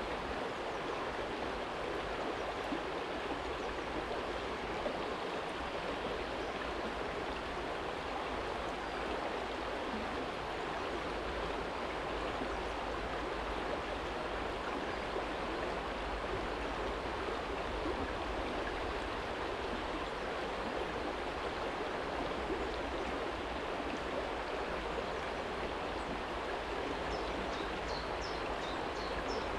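Small shallow stream flowing steadily over a stony bed, an even rush of water with a low rumble underneath. A few short high chirps come near the end.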